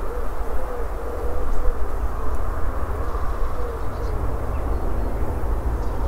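A bird cooing: short, low, wavering notes repeated about twice a second in an unbroken phrase, over a steady low rumble.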